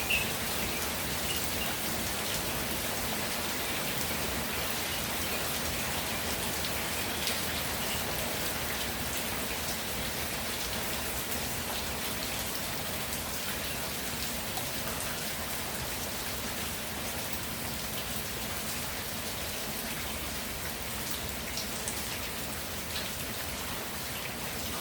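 Steady rainfall, with the sharper taps of single drops landing close by. A bird chirps faintly a couple of times at the very start.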